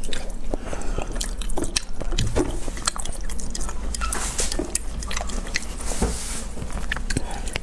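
Close-miked mouth sounds of chewing raw salmon sashimi: many soft, wet clicks and smacks. A slice is dipped in soy sauce about midway, adding a faint wet dabbing.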